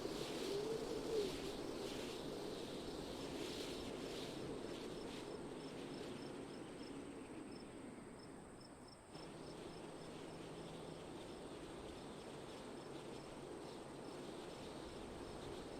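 Wind blowing in soft gusts that ease off over the first few seconds, with faint insect chirping, about three chirps a second, high above it. About nine seconds in the sound changes abruptly, as at a splice in the recording.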